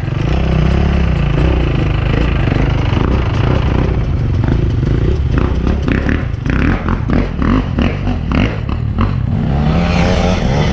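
Enduro dirt bike engine running, with a string of knocks and clatter in the middle and a rising rev near the end.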